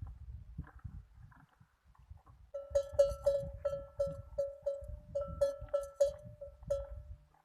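Low crunching and clicking, typical of a camel chewing a bone. From about two and a half seconds in, a bell-like note rings again and again at one pitch, about three times a second, and this is the loudest sound.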